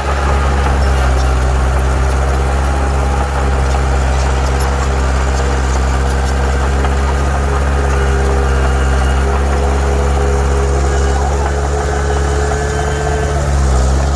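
Heavy diesel engine of earthmoving machinery running steadily, a deep even drone.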